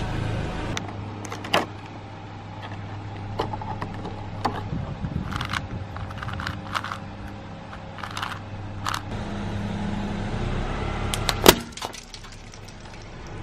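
A car tyre rolling over and crushing crunchy objects: a scatter of sharp cracks and snaps, with one loudest crack near the end, over the steady hum of the car's engine.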